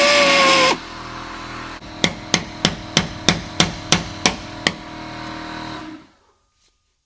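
Belt sander grinding down spot welds in sheet-metal body panels, its pitch sagging slightly under load before it cuts off about a second in. A low steady hum follows, with nine sharp metal knocks at about three a second in the middle, and the hum fades out near the end.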